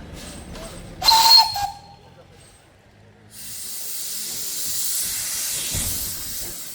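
A steam locomotive's whistle gives one short, loud blast about a second in. Then steam hisses out steadily for the last three seconds or so.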